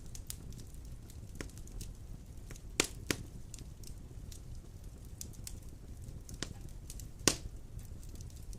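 Wood fire burning in a stone fireplace: a steady low rumble of flames with scattered sharp crackles and pops, the loudest pops a little under three seconds in, again just after, and about seven seconds in.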